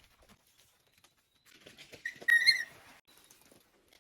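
A short, high-pitched whistle-like squeal about two seconds in, with a sharp click in the middle of it.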